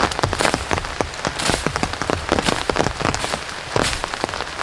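Heavy rain falling, with many close drops striking irregularly as sharp ticks.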